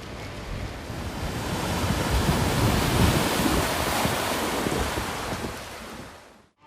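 Storm wind and heavy surf from a typhoon: a dense rushing noise with gusts buffeting the microphone. It swells in the middle and fades out near the end.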